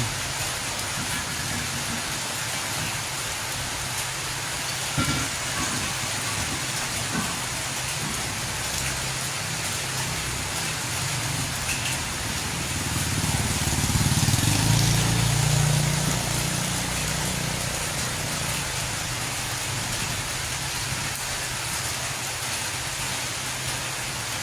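Street ambience: a steady hiss, with a road vehicle passing about halfway through, its low engine and tyre rumble rising and then fading.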